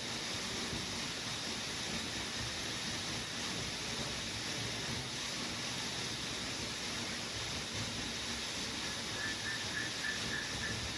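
Steady heavy rain falling, an even hiss. Near the end, a run of short high chirps repeats several times a second.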